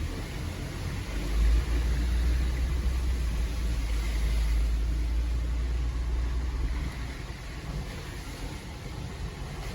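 Jeep Gladiator Rubicon's 3.6 Pentastar V6 running as the truck drives slowly on the trail, heard from inside the cab. A deep low sound swells about a second in and eases off around seven seconds.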